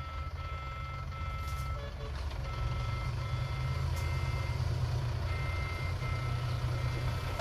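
Diesel engine of a small earthmoving machine running, with a reversing alarm beeping in a steady repeated pattern over it. The engine gets louder about two seconds in.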